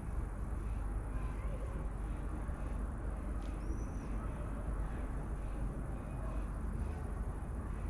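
Steady low outdoor rumble, like distant traffic, with one short, thin, high bird call about three and a half seconds in and a few faint chirps.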